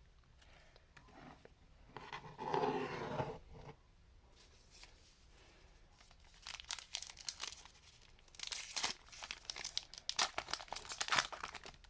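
Foil trading-card pack wrapper crinkling and tearing as packs are opened, in dense rustling bursts over the second half. A short, louder sound comes about two seconds in, before the rustling.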